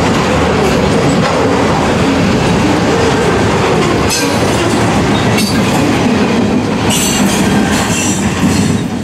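Freight train cars rolling past close by: a steady rumble and clatter of steel wheels on rail. Brief high-pitched metal squeals come about four seconds in and again near the end.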